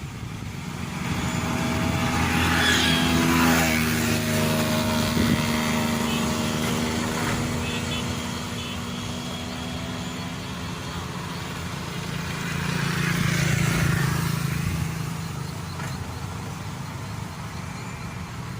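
Maxxi Bimo 102 combine harvester's engine running, rising and falling in pitch and getting louder twice, around a few seconds in and again past the middle.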